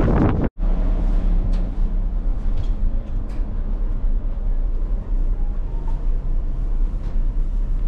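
Steady low mechanical drone of a running vehicle heard from inside it, with a few faint light clicks, starting abruptly about half a second in after a short break in the sound.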